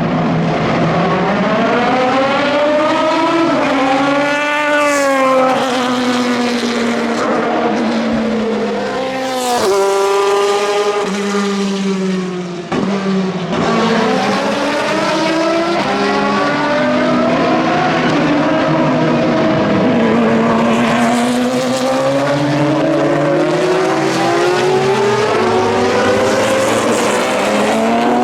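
Several endurance racing cars' engines at race pace, overlapping, the pitch climbing through each gear and falling back at each shift. There is a brief lift about twelve and a half seconds in.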